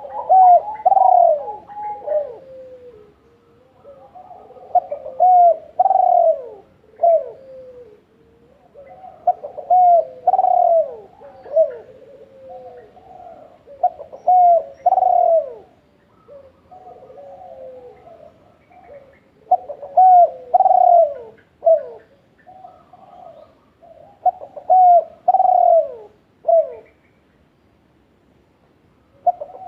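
A bird calling in repeated low phrases of several sweeping notes, one phrase every four to five seconds, pausing briefly near the end.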